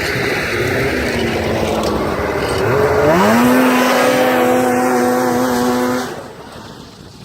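Polaris Edge X snowmobile's two-stroke engine through its stock exhaust, running and then revving up sharply about three seconds in to hold a steady high pitch. About six seconds in the engine sound drops away suddenly, leaving a quieter hiss.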